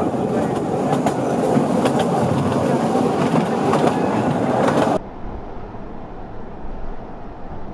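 Narrow-gauge diesel-hauled train running along the line, with the rumble and rapid clicking of wheels over the rails. About five seconds in, it cuts off suddenly to a much quieter steady background noise.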